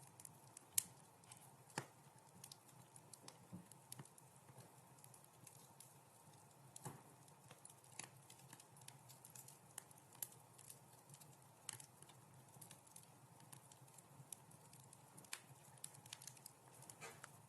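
Wood fire crackling in a fireplace: irregular sharp pops and snaps, the loudest about a second in, over a faint steady low hum.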